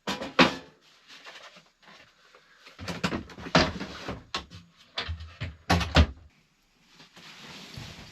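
A series of sharp knocks and bumps of things being handled, with heavier low thuds about three and six seconds in.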